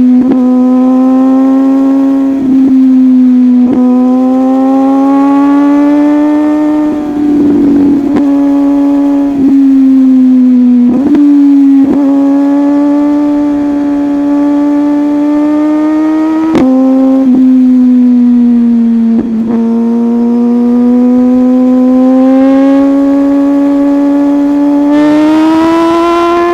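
Superbike engine running hard at a high, fairly steady pitch while riding, drifting slightly up and down and rising near the end as the throttle opens. Brief sharp knocks cut through it every few seconds.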